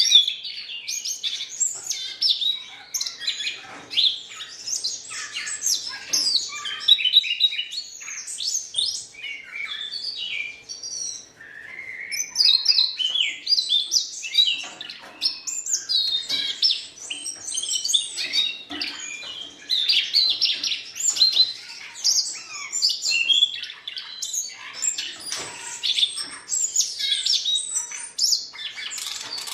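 Siberian rubythroat singing a long, rapid, varied warbling song of chirps, whistles and short pitch glides, running on without a real pause.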